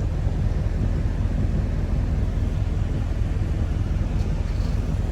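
Chevrolet Camaro SS 1LE's naturally aspirated V8 running at a steady low drone while cruising, with no revving.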